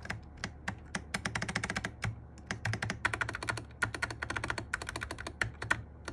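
Fast typing on a Sky87 mechanical keyboard with MMD Panda switches and Cherry-profile keycaps: rapid runs of key clacks in bursts, with brief pauses about two seconds in and near the end. The stabilisers sound rattly ('lọc sọc').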